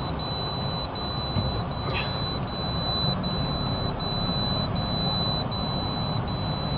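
Mahindra Bolero BS6 diesel engine running as the vehicle sets off on a test drive, with a steady high-pitched tone broken by short gaps about every three-quarters of a second.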